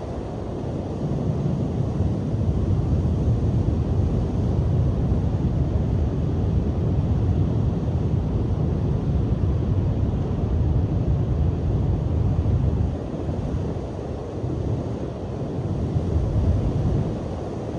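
Strong sea wind buffeting the microphone in a low, steady rumble over the wash of breaking surf. It eases briefly a little after the middle, then gusts up again.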